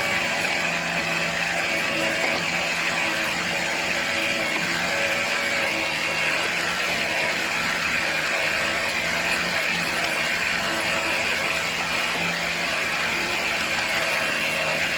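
Kubota tractor's diesel engine running steadily while powering backhoe work.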